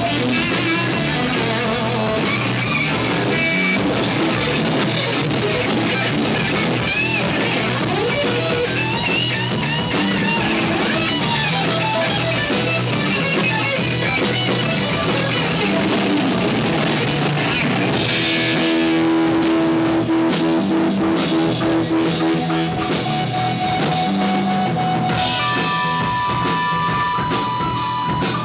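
Rock band playing live, with guitar and drum kit. About two-thirds through, the steady cymbal beat drops out for several seconds while held guitar notes ring, then the beat comes back.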